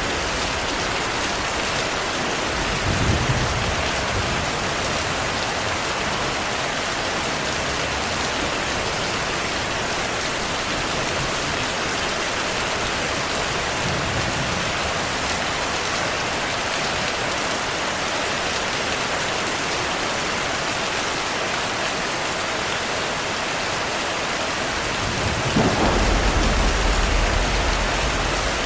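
Heavy rain falling steadily, with rolling thunder: a short rumble about three seconds in and a longer, louder one near the end.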